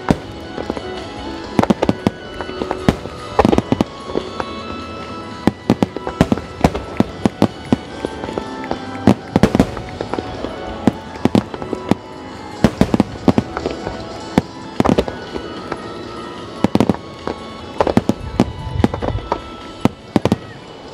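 Starmine fireworks barrage: shells bursting in quick, irregular clusters with sharp bangs and crackle. Music plays alongside the bursts.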